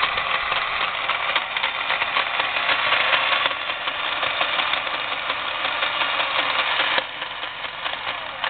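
Milwaukee 4208-1 magnetic drill press running in reverse at high speed, its gearbox giving a very loud grinding rattle over the motor; the owner thinks the gearbox may be defective while the motor itself is okay. The noise drops in level about halfway through and again near the end.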